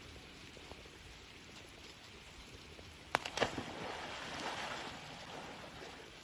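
A paddle stroke about three seconds in: a sharp knock and a splash as the paddle goes into the water, then a couple of seconds of water swishing. A faint steady hiss lies under it.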